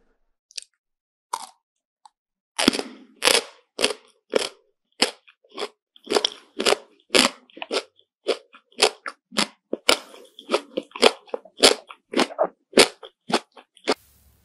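Close-miked crunchy chewing of a crisp snack: a couple of sharp crunches, then steady crunching chews at about two a second.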